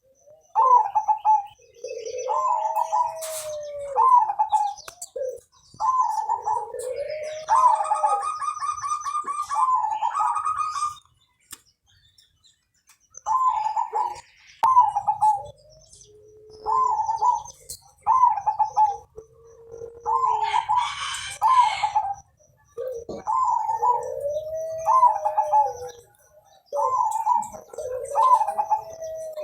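Zebra dove (perkutut) cooing over and over: a short run of notes followed by a lower, drawn-out rising-and-falling coo, repeated every couple of seconds with a brief pause partway through. Twice a higher, buzzy chirping call breaks in.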